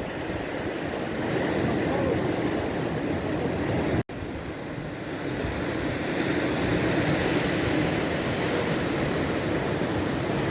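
Baltic Sea surf washing onto the shore in a steady wash, with wind on the microphone. The sound cuts out for an instant about four seconds in.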